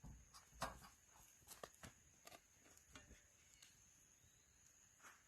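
Near silence, with a few faint scattered clicks and knocks.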